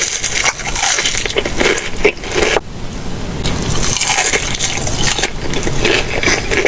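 Biting into and chewing a fried chicken tender close to the microphone: dense crunching and crackling of the breading, with a brief pause partway through.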